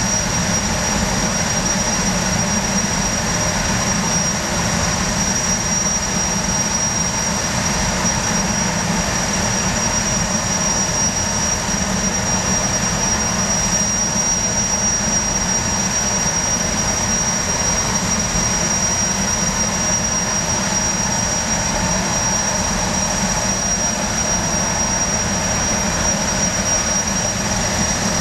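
High-speed jetfoil's gas turbines running, a steady high whine over a low rumble.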